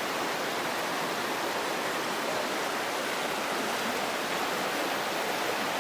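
Steady rushing of flowing stream water, an even noise without breaks.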